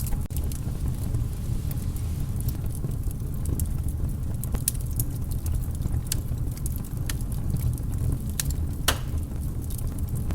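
Wood fire burning in a fireplace: a steady low rumble of flames with irregular sharp crackles and pops, one louder pop about nine seconds in.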